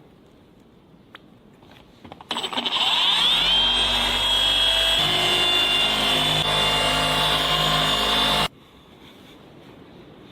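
Electric paint-polishing machine spinning up with a rising whine, then running steadily at speed. It stops abruptly about eight and a half seconds in.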